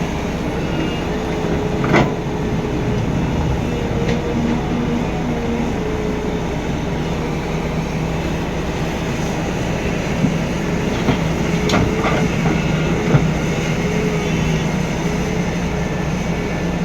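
Heavy Volvo FMX truck running, a steady rumble with a wavering drone, and a few sharp knocks and rattles, the loudest about two seconds in and a cluster near the end.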